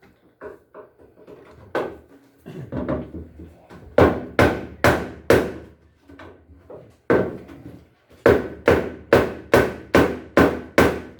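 Hammer striking the sheet-metal front panel of a washing machine to break it free where rust has fused it to the cabinet. A few light taps, then a run of four hard blows, and near the end a steady run of about eight, roughly two a second, each leaving a short metallic ring.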